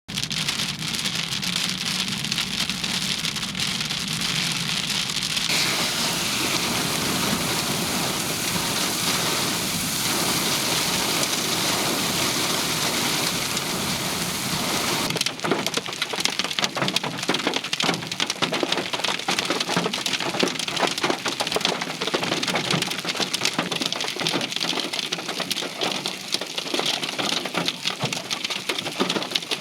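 Heavy thunderstorm rain pouring steadily. About halfway in, the sound changes to a dense patter of many sharp individual impacts on a hard surface.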